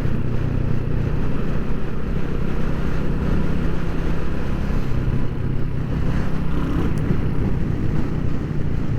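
Royal Enfield Hunter 350's single-cylinder engine running at a steady speed on the move, its pitch holding level with no revving.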